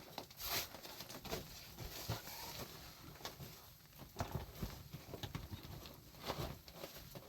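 Irregular light knocks and scuffs, many short hits in no steady rhythm.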